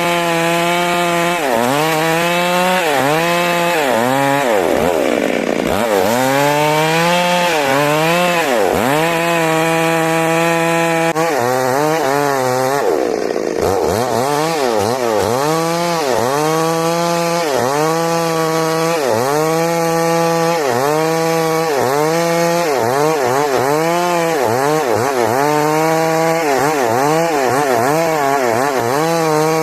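Stihl MS 382 two-stroke chainsaw cutting through a large trembesi log, running at high revs. Its pitch dips under load and recovers about once a second as the chain bites into the wood.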